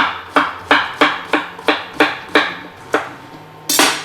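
Knife chopping courgette on a cutting board in a steady rhythm, about three chops a second, stopping after roughly two and a half seconds; a short, louder rush of noise follows near the end.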